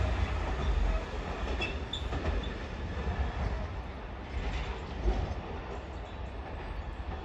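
Freight train rolling past on the line, its rumble fading as it draws away, with a few brief faint wheel squeals about two seconds in.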